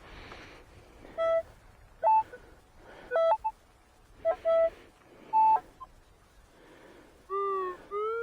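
Metal detector sounding a buried target: a series of short beeps at two alternating pitches as the coil is swept back and forth, then near the end a held tone that slides down and up in pitch.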